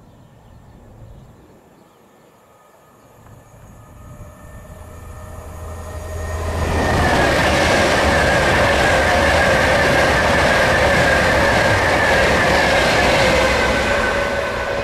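A train approaching and passing at speed: it grows louder over several seconds, then passes loud and close with a steady high whine over a rushing noise, and begins to fade near the end.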